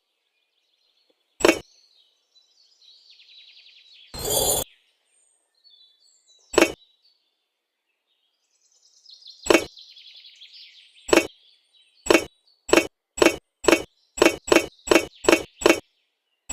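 A series of sharp knocks or clicks on something hard, a few seconds apart at first, then quickening to about two a second in the last few seconds. Faint bird chirping runs underneath, and a longer half-second rasp comes about four seconds in.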